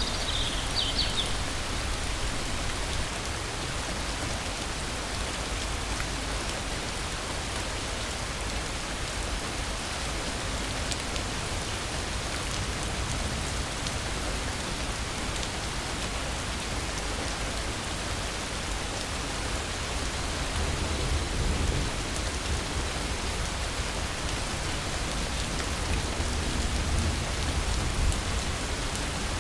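Steady rain falling, an even hiss of drops on the ground and foliage, with a brief high chirp about a second in.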